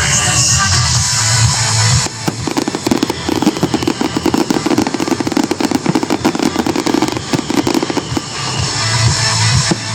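Fireworks crackling in a dense run of rapid pops over loud show music. The crackle starts about two seconds in and dies away near the end.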